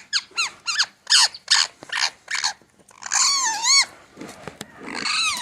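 Parakeets screeching as two of them squabble: a quick run of short harsh calls, each falling in pitch, then two longer wavering squawks.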